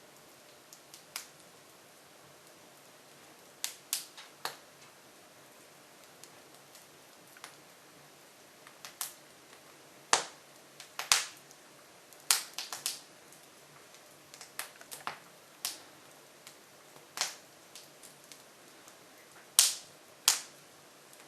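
Hardwood logs burning in an open-fronted Jøtul F500 wood stove, crackling with irregular sharp pops over a faint hiss, the louder pops coming in the second half.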